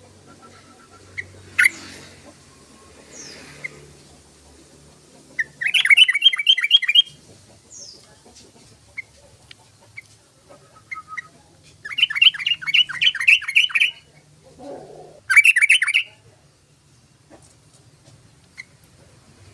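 Yellow-vented bulbul calling: three bursts of rapid chattering notes, a second or two each, with scattered single chirps between them.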